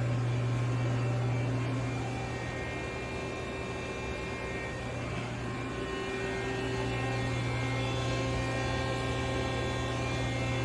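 Steady low electrical hum with faint steady tones above it, from a powered-up CNC horizontal machining center standing idle.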